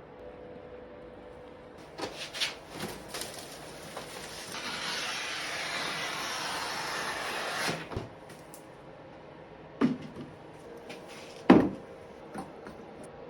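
Wooden cabinet parts of an antique cigar humidor being handled. There are several sharp wooden knocks, like a lid or doors opening and closing, the loudest near the end. In the middle comes a steady rushing scrape of about three seconds.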